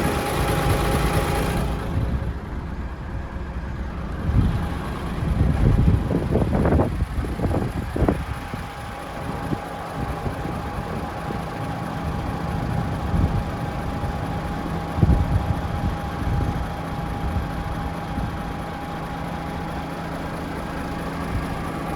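Diesel engine of a DAF XF106 tractor unit, a PACCAR 460 hp Euro 6, idling steadily. A few louder rustles and knocks come about six to eight seconds in.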